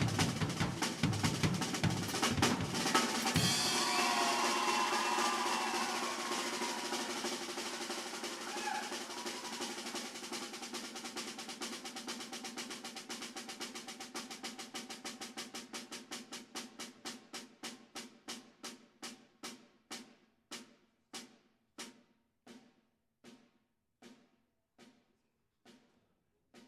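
Drum kit played hard with bass drum hits for the first few seconds, then a long drum roll that gradually slows down and dies away into single, spaced strokes.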